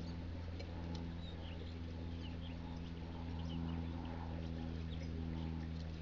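Scattered short, high chirps of small birds over a steady low hum.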